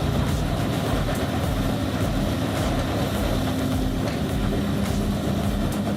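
Bandit Beast 4680 horizontal wood grinder running steadily under load: a heavy engine drone with faint, scattered cracks of wood being crushed.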